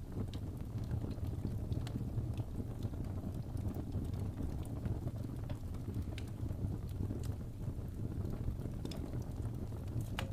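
Fire in a fireplace crackling: a steady low rumble with scattered sharp pops and snaps at irregular intervals.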